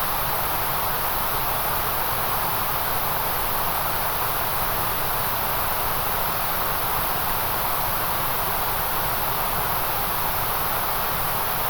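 White noise: an even, unchanging hiss, heaviest in the middle range and at the very top.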